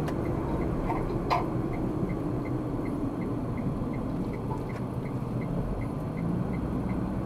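Car's turn-signal indicator ticking evenly, about three ticks a second, over steady road and engine noise, with one louder click about a second in.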